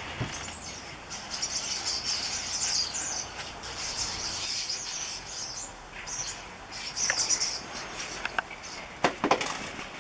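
A flock of birds chattering and calling constantly, birds that the uploader takes for fieldfares. A few sharp knocks come near the end.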